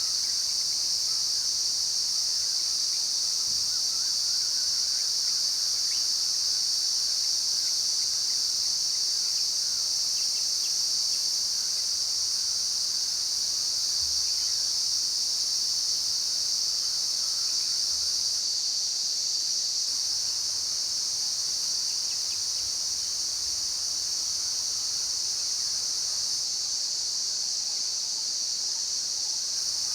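Steady, high-pitched chorus of insects calling without a break, with faint scattered bird calls underneath.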